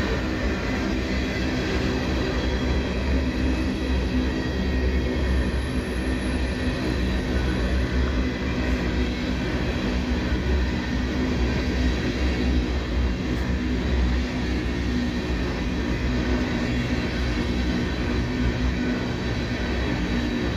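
Empty open-top coal hopper cars of a freight train rolling steadily past: a continuous, even rumble of wheels on rail with faint steady tones above it.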